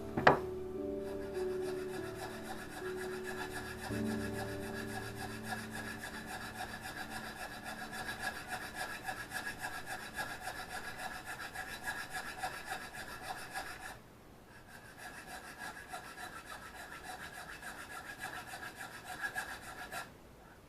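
Japanese plane blade being worked by hand on a sharpening stone in quick, even back-and-forth strokes, grinding its bevel angle and correcting its symmetry; the strokes pause briefly about two-thirds of the way in, then go on. Piano music fades out early on.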